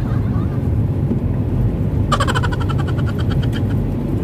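Car running and rolling along a street, heard from inside the cabin as a steady low rumble of engine and tyres. About halfway through, a rapid high-pitched pulsing rattle of roughly nine pulses a second comes in for under two seconds.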